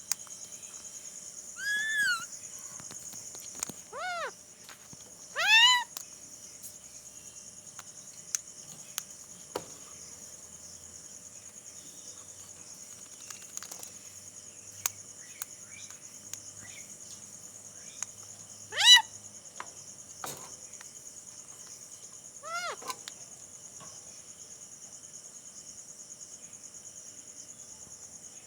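Alexandrine parakeet mimicking a cat's meow: about five short meows spread through, each rising and then falling in pitch, the loudest about two-thirds of the way in. Crickets chirr steadily underneath.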